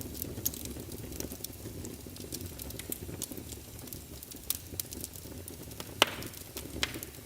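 Small wood fire burning in a fireplace: a steady low rumble of flame with frequent sharp crackles, and one loud pop about six seconds in.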